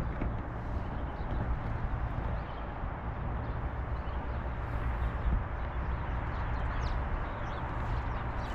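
Wind rumbling steadily on the microphone, with light, irregular taps of footsteps on pavement.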